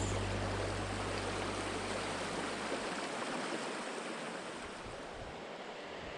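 Small mountain stream rushing and splashing over rocks, a steady noise of flowing water. Low background music fades out over the first two seconds or so.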